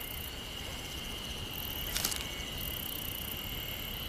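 Forest insect chorus: a steady high trill with a very high shrilling that comes and goes. There is one short click about two seconds in.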